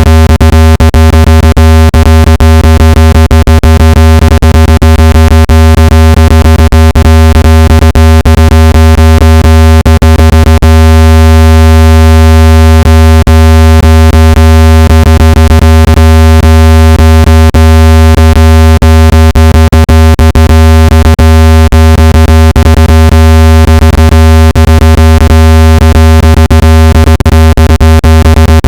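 Phone speaker-cleaning tone: a loud, steady, harsh low electronic buzz, broken by many brief clicks. It is played at full volume to shake water and dust out of a phone speaker.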